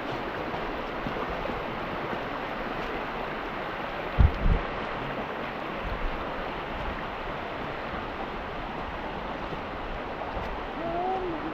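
Steady rush of flowing stream water, with two deep thumps about four seconds in.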